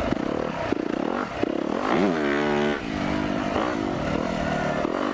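Four-stroke dirt bike engine running on the trail, revving up about two seconds in and then easing off.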